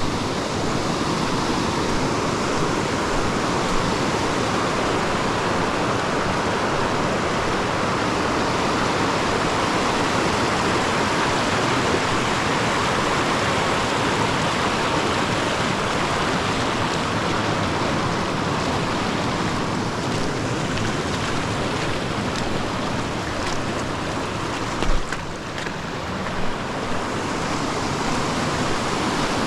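Creek water rushing steadily, with a couple of brief knocks about 25 seconds in.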